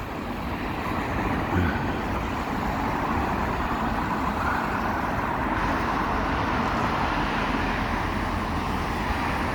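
Steady road traffic noise of passing cars, a continuous tyre-and-engine hiss that swells slightly in the first couple of seconds and then holds.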